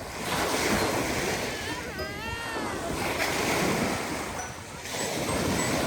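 Wind-driven waves breaking and washing on a lake beach, a steady rushing that swells and eases, mixed with wind. A child's voice calls out briefly about two seconds in.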